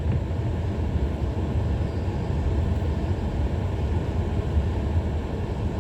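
Steady low rumble of a vehicle's engine and road noise heard from inside the cabin while driving.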